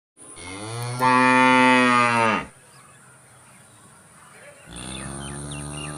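Holstein cow mooing twice: a long, loud, low moo of about two seconds, then a second, quieter moo starting near the end.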